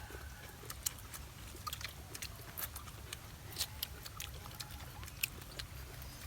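Eating noises: scattered small clicks and smacks of people eating chicken and rice by hand, over a low steady hum.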